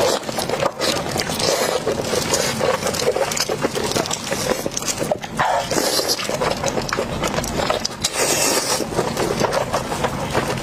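Close-miked chewing and lip-smacking of someone eating fatty pork large intestine, with many small mouth clicks throughout.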